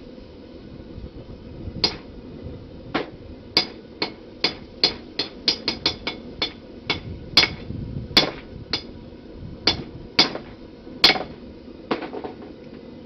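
Blacksmith's hammer striking hot steel on an anvil, forging the bevels of a knife blade: about twenty sharp blows at an uneven pace, quickest around the middle. A steady rushing noise runs underneath.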